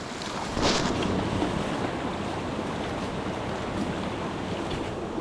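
Steady rushing of a small creek's flowing water, with a brief sharper burst of noise a little under a second in.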